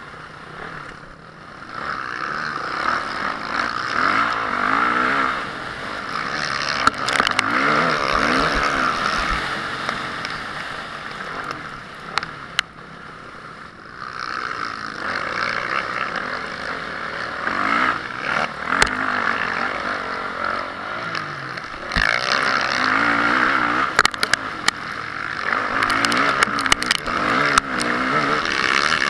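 Honda CRF450R single-cylinder four-stroke motocross engine revving up and down again and again as the bike is ridden round the track, with sharp knocks and clatters scattered through, most of them near the end.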